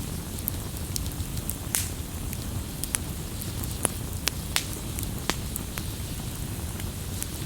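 Campfire burning: a steady low rumble of the flames with irregular sharp crackles and pops of burning wood, a few louder pops in the middle.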